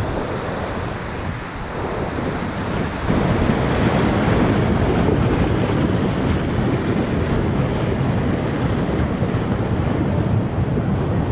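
Rushing whitewater of a river running around a raft, with wind buffeting the microphone; the noise steps up louder about three seconds in.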